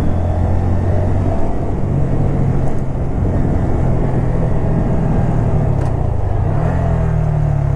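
Honda Grom's 125cc single-cylinder four-stroke engine running under way. Its note steps up in pitch about two seconds in and again near the end.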